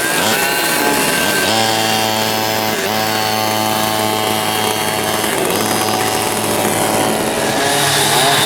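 Several vintage rear-engine racing karts' two-stroke engines running together, one holding a steady high pitch for a few seconds with a brief dip, then engines rising and falling in pitch near the end as they rev.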